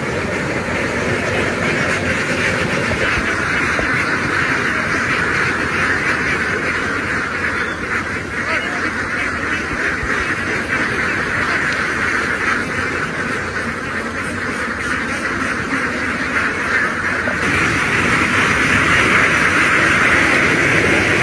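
A large flock of domestic ducks quacking all at once in a dense, continuous chorus, growing a little louder near the end.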